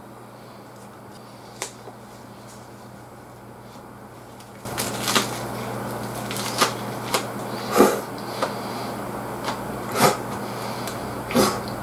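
A man biting and chewing a fresh leaf wrap of grilled beef and bitter melon, crunching crisply and irregularly from about five seconds in. Before that there is only a single faint click.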